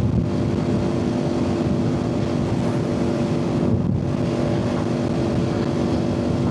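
Motorcycle engine running at a steady cruising speed, its pitch holding level, with wind buffeting the helmet-mounted microphone.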